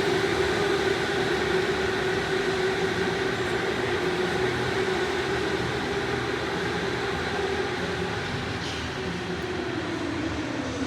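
Electric go-kart motor whining steadily, its pitch sagging slowly over the last few seconds as the kart eases off.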